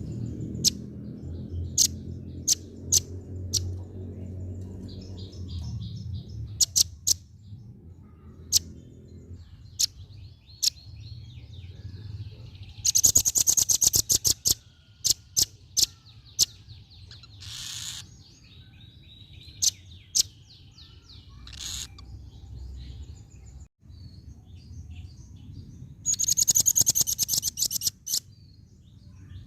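Female velvet-fronted nuthatch calling: sharp, high single chip notes scattered through the clip, and two loud fast rattling trills, one about halfway through and one near the end.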